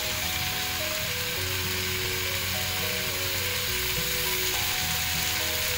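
Tomato-and-spice masala sizzling in oil in a pressure cooker, a steady frying hiss. Soft background music of long held notes plays underneath.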